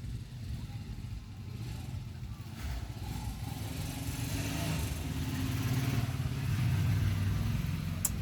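A motor engine running steadily with a low hum, slowly growing louder. A sharp click comes near the end.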